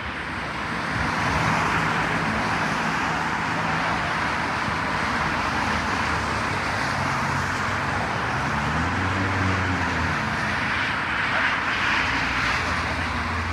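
A vehicle engine humming steadily under a continuous rushing noise, with a brief rise and fall in pitch around the middle.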